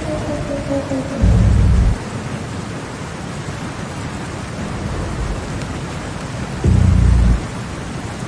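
Rain-like noise wash from a drum-and-bass track's beatless passage, with a falling synth tone sliding away in the first second. Two deep booms, each under a second long, come about five and a half seconds apart.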